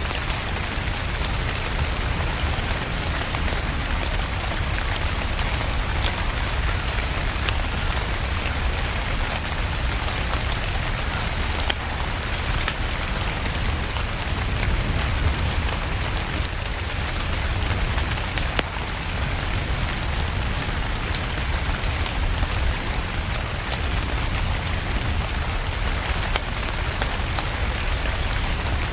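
Steady rain with a wood fire crackling: an even hiss scattered with many small sharp pops, over a steady low rumble.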